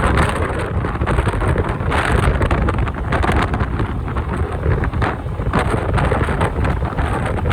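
Strong typhoon wind buffeting the microphone of a moving motorcycle: a loud, steady low rumble that swells in gusts.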